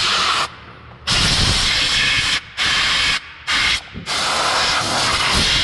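Compressed-air blow gun fired in about five blasts of loud hiss, each between half a second and a second and a half long, with short gaps between them.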